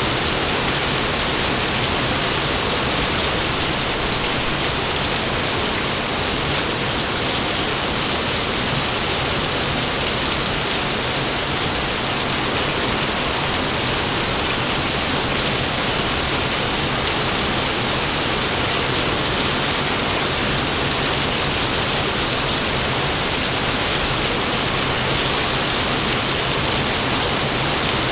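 Heavy rain pouring steadily, an even hiss with no thunderclap heard.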